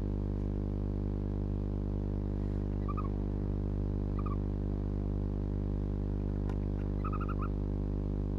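Steady electrical hum from the camera's recording setup, with a few short, faint squeaky chirps: single ones about three and four seconds in, then a quick run of about four near the end, typical of barn owl twittering calls.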